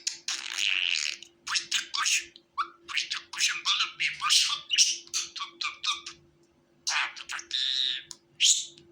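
Budgerigar chattering: a fast run of short chirps and harsh squawks, with a brief pause about two-thirds of the way through.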